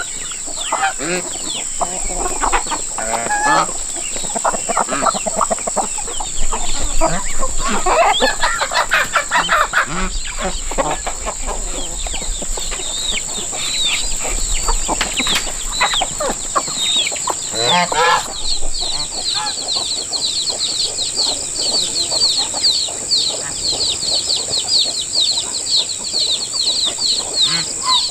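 Chickens clucking, with a rooster crowing among them. Behind them runs a steady high-pitched hiss, and about two-thirds through a fast, even run of high chirps sets in.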